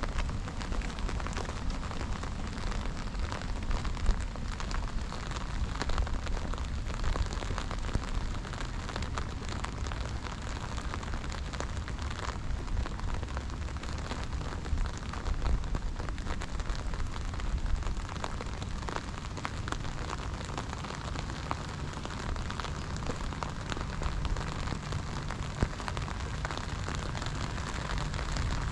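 Steady rain pattering: a dense crackle of small drop ticks over a low rumble.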